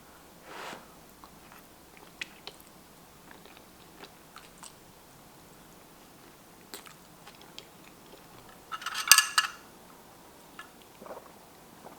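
A person eating close to the microphone: chewing and biting with small scattered clicks, and one short, louder crackle about nine seconds in.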